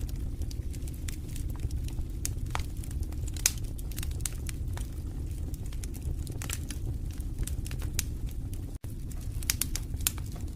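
Wood fire burning in a fireplace: a steady low rumble of flames with frequent irregular sharp crackles and pops from the burning wood.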